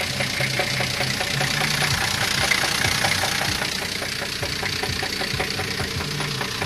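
Car engine idling with a steady, rhythmic knock, roughly four or five a second; the owners fear that the bearing shells are about to spin.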